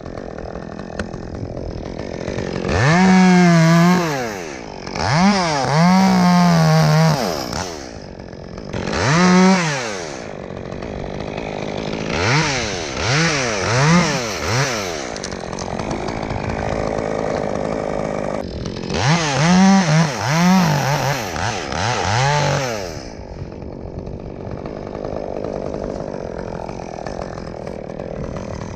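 Chainsaw revved again and again: each burst climbs to full speed, holds briefly and drops back to idle. The saw idles between bursts and idles steadily through the last several seconds.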